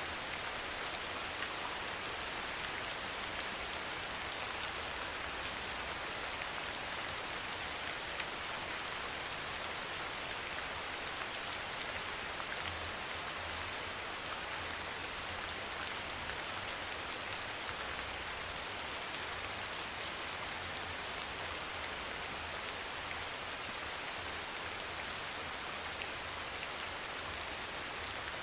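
Soft rain falling steadily: an even hiss with scattered faint drop ticks.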